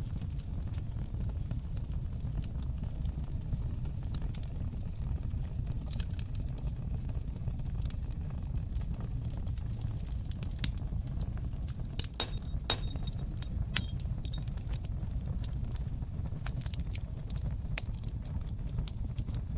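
Fireplace fire burning with a steady low rumble and scattered crackles and pops. The pops come thickest a little past the middle, where the single loudest pop falls.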